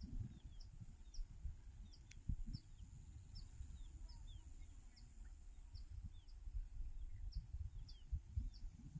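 Faint bird chirping: short, high, downward-sliding notes repeated about twice a second, with softer lower chirps among them, over an irregular low rumble.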